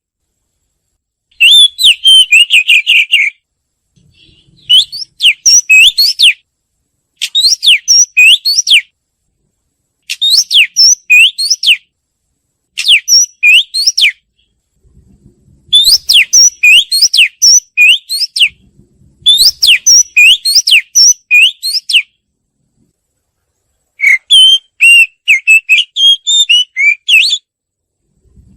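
Oriental magpie-robin singing: about eight phrases of clear, quick whistled notes that sweep up and down, each phrase a second or two long, with short pauses between them.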